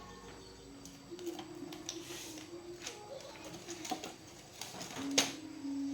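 Scattered light clicks and taps over a faint steady low hum, with one sharper click about five seconds in.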